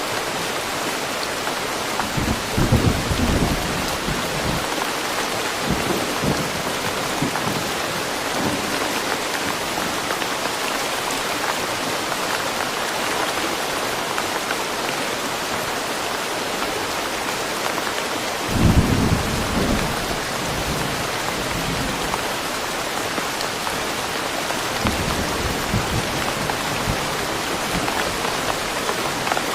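Steady rain with low rumbles of distant thunder, the loudest about three seconds in and again about nineteen seconds in, with fainter rumbles between.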